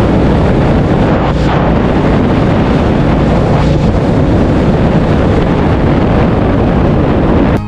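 Heavy wind noise on the microphone of a Royal Enfield Classic 350 rider at road speed, with the motorcycle's engine and road noise underneath as a steady rush.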